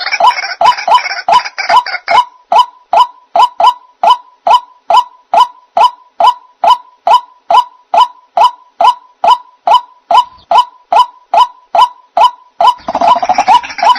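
White-breasted waterhen (ruak-ruak) lure call: a short, harsh note repeated at about two a second. The calls are overlaid by a denser chatter of calls for the first couple of seconds and again near the end.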